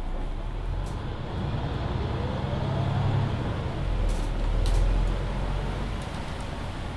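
Mercedes-Benz Citaro C2 Hybrid city bus's six-cylinder diesel and Voith automatic gearbox pulling away. A whine rises in pitch for about two seconds, then a deep rumble swells about halfway through and eases off near the end.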